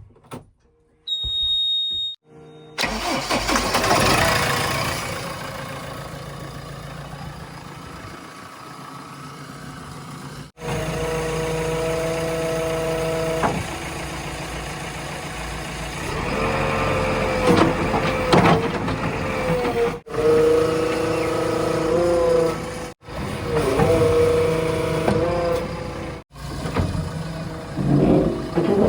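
A diesel engine of a heavy machine starting about three seconds in, then running with some revving. It is heard as several short clips joined by abrupt cuts.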